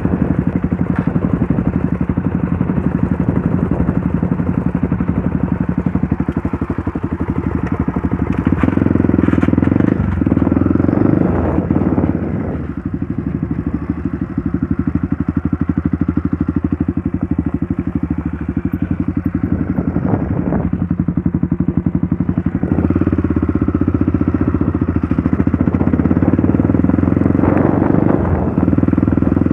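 Trail motorcycle engine running while riding, its note rising and dropping a few times as the throttle opens and closes.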